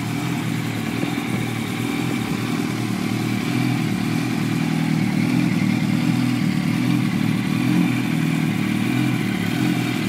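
2008 Yamaha R1's inline-four engine, fitted with an aftermarket Two Brothers exhaust, idling steadily at an even low hum.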